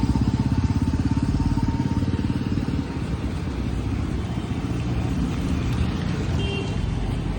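Road traffic with a motorcycle engine running close by, its fast even low pulsing strongest for the first few seconds, then easing into a steadier low traffic and wind rumble.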